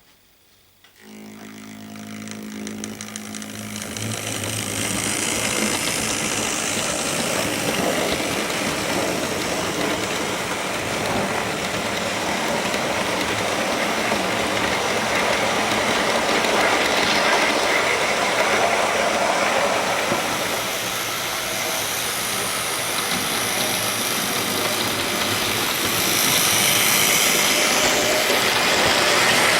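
Model train running on the layout: double-headed model LMS 8F and 3F steam locomotives hauling six carriages and a wagon, a steady rumble of wheels on track with motor whine. It starts about a second in, builds up over a few seconds as the train pulls away, and gets louder again near the end.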